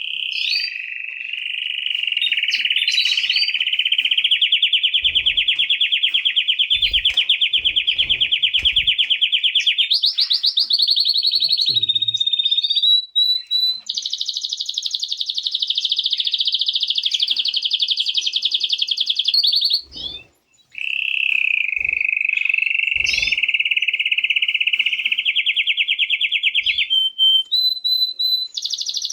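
Canary singing: long, fast trills of rapidly repeated notes, stepping to a higher-pitched trill about ten seconds in and again later, with a brief pause about two-thirds of the way through.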